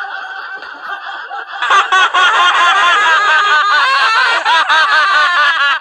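A group of men laughing hard together, breaking into loud, sustained laughter about a second and a half in.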